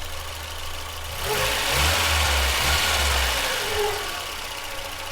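Volvo 945's 2.3-litre four-cylinder engine idling steadily. A louder rushing noise swells in about a second in and fades out about two and a half seconds later.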